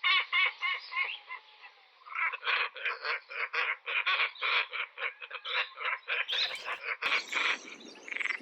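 Birds calling: a long run of short, repeated harsh notes, about three or four a second, with a change in the background sound about seven seconds in.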